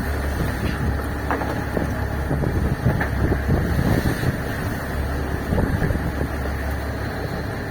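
Fishing boat's engine running steadily, with wind buffeting the microphone and a few light knocks scattered through.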